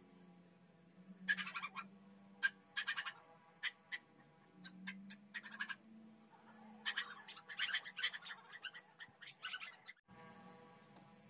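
Small bird chirping in short, rapid clusters every second or so, over a steady low hum. The sound drops out abruptly near the end.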